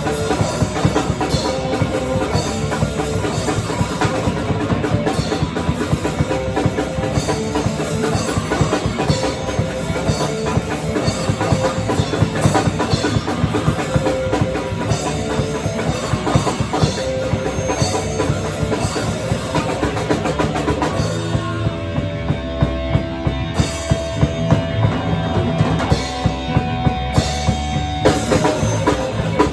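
A live rock band playing loudly, with a full drum kit pounding under bass and guitar. About two-thirds of the way in, the drums thin out and held bass and guitar notes carry the music, before the full beat comes back near the end.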